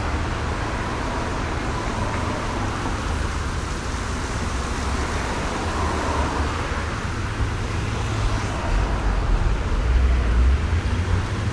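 City street traffic ambience: a steady wash of cars passing with continuous engine and tyre noise. A deeper rumble swells in the last few seconds.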